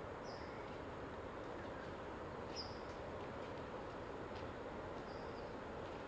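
A small bird calling three times, a short high chirp about every two and a half seconds, over a steady rushing background of outdoor noise.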